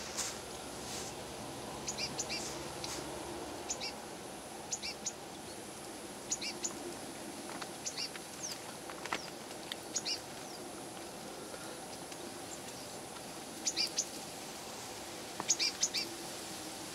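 Short, high bird chirps in small clusters of two to four, every second or two, with the loudest groups near the end, over steady low background noise.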